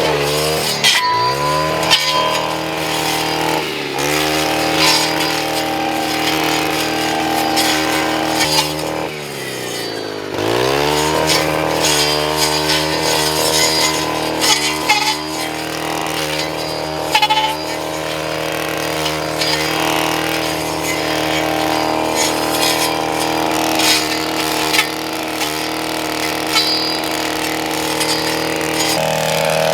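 Small engine running at high speed, its pitch sagging sharply under load and climbing back several times, about a second in, at four seconds and again near ten seconds.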